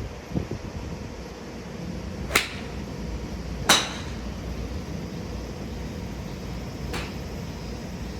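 Golf club heads striking balls at a driving range: three sharp cracks, the first two loud and about a second and a half apart, the third fainter, over a steady low hum.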